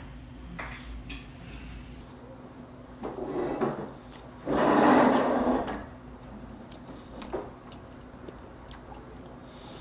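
A person eating a mouthful of raw horse meat close to a clip-on microphone. There are soft mouth and chewing noises, a short noisy rustle about three seconds in, a louder one of about a second around the middle, and faint ticks after that.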